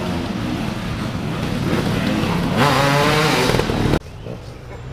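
Trials motorcycle engine running and revving up hard, the revs climbing and wavering; it cuts off abruptly about four seconds in.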